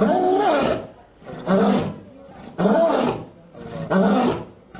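A lion giving a series of short, deep grunting roars, four in a row about a second apart.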